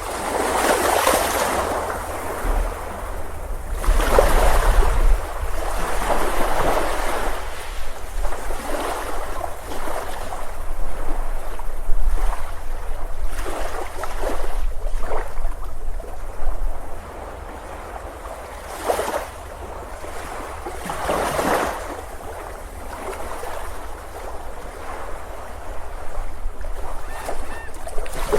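Ocean waves breaking on a beach, surging in and washing back again and again, with a low rumble in the first half.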